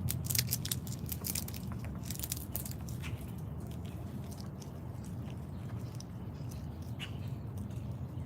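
Crisp, crunchy clicks of seeds being cracked and chewed by a feeder animal close to the microphone, thickest over the first three seconds and scattered after, over a steady low rumble.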